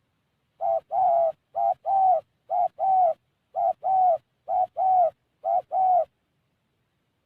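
Spotted dove (tekukur) cooing: six even pairs of mellow notes, each a short coo followed by a longer one, about one pair a second.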